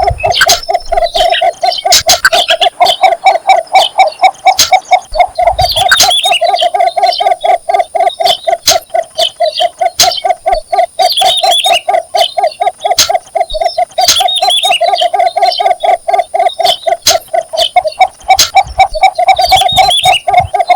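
Cinnamon bittern's mating call: a low note repeated rapidly and evenly, on and on without a break. Higher chirps come in every few seconds above it.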